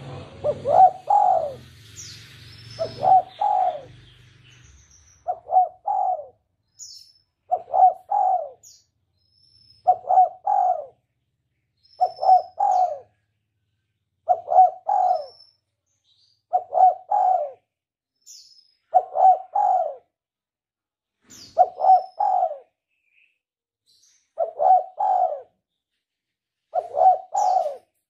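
A bird calling a low three-note phrase over and over, about every two and a half seconds, with faint short high chirps from small birds in between.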